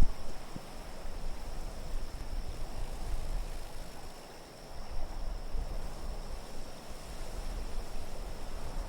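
Winter wind blowing in an unsteady haze with a low rumble, swelling and easing, under a faint steady high whistle.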